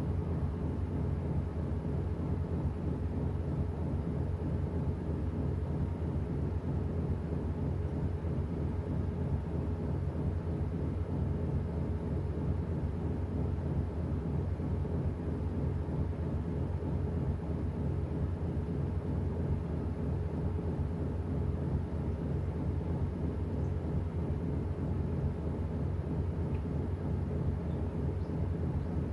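Washing machine running steadily: a continuous low mechanical hum with a constant drone and no breaks or changes.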